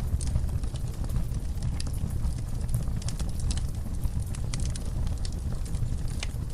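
Wood fire burning in a fireplace, crackling with irregular sharp snaps over a steady low rumble.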